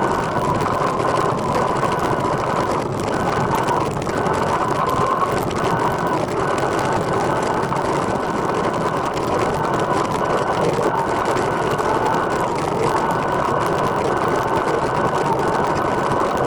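Recumbent trike rolling along at speed: steady wind and tyre noise with a thin, steady whine that wavers slightly in pitch.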